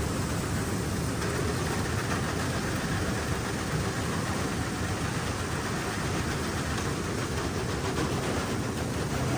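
An engine running steadily, with a low rumble and an even hiss and no change in speed.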